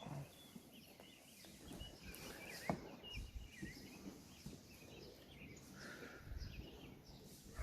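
Birds chirping faintly in short, scattered calls over low scuffing noise, with one sharp click nearly three seconds in.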